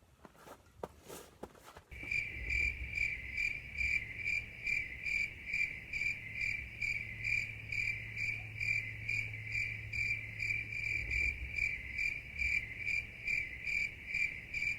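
Cricket chirping in an even rhythm, about four chirps a second, starting suddenly about two seconds in after a few faint knocks.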